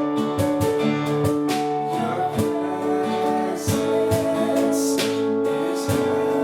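Acoustic guitar strummed in a worship song, with held notes and a steady rhythm.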